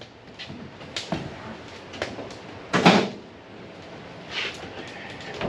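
Hard objects being handled: a few light knocks about a second in and a louder clatter near three seconds, like things taken out of a drawer or box and set down.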